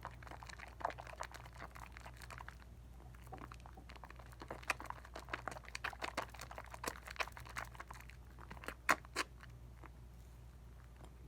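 Wet soap lather from a Dial coconut bar being worked by hand, with soft squelching and many small irregular crackles of popping bubbles. A pair of louder pops comes about nine seconds in.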